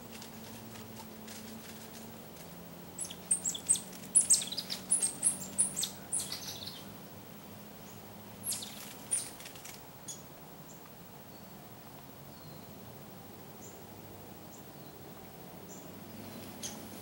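A small bird calling with a quick run of short, high chirps for about four seconds, then two more a little later. A faint steady low hum lies under it.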